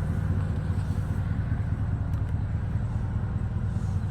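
Pickup truck's 5.3 L V8 idling steadily, a low, even rumble.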